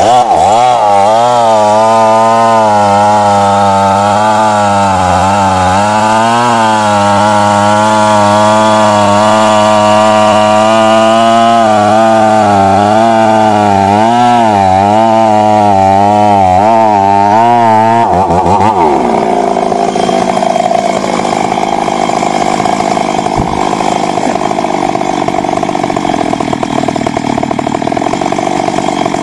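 Stihl MS 382 two-stroke chainsaw running hard while cutting wood, its pitch wavering up and down as the load on the chain changes. About two-thirds of the way through, the pitch rises and the sound turns rougher and higher.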